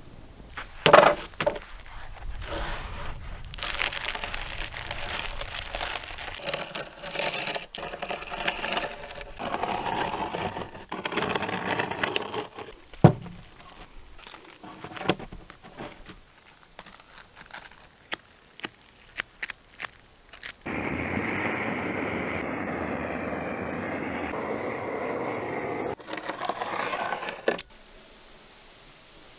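Hand-tool work on wood: scraping and crackling with sharp knocks and taps, then several seconds of steady noise that stops suddenly.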